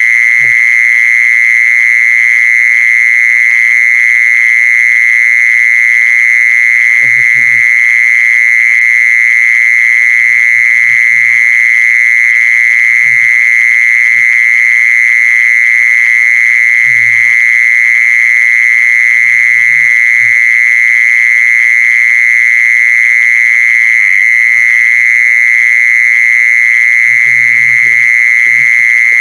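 Continuous high-pitched buzzing song of the jeeson insect, a Thai singing insect, held at one steady pitch without a break.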